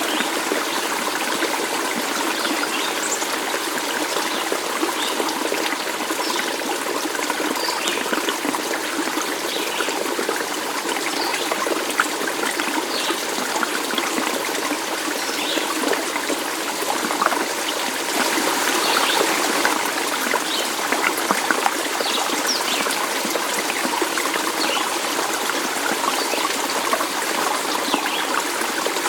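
Stream water trickling and flowing steadily, with many short bright splashes and plinks scattered throughout.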